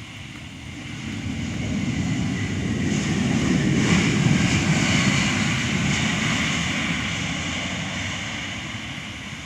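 Jet aircraft engines as the plane passes by: a low rumble with a higher whine over it, swelling to a peak about four seconds in and then fading away.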